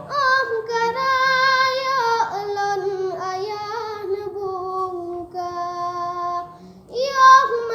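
A high solo voice, a child's or a woman's, sings a slow devotional melody to Allah, holding long notes with vibrato and sliding ornaments. It drops away briefly near the end, then comes back louder on a new phrase.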